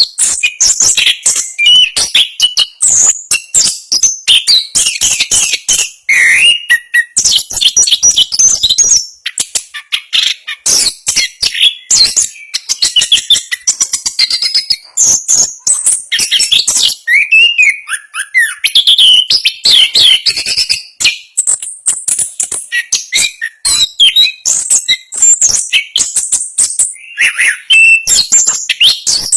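Chestnut-capped thrush (anis kembang) singing a fast, dense, nearly unbroken run of rapid varied chirps, trills and whistles, with only brief pauses.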